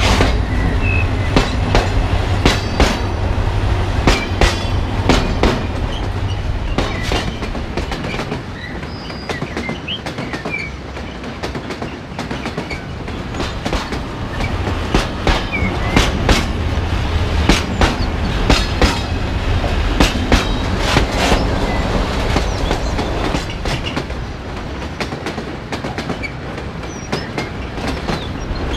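Train running along track, its wheels clicking irregularly over rail joints above a steady low rumble.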